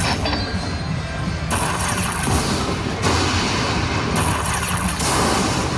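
Lightning Link slot machine playing its bonus-round sounds and music over steady casino floor noise with a low hum.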